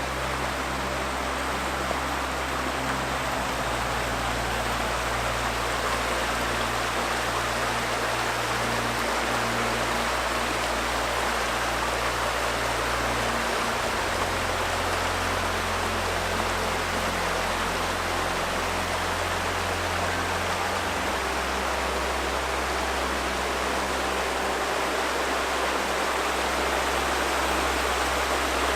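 River water rushing steadily, with soft low sustained music notes underneath that change pitch every several seconds.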